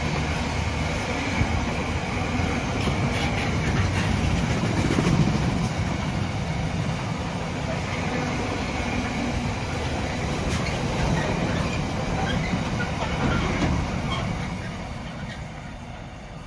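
A train running past along the tracks with steady rail and wheel noise, fading away near the end.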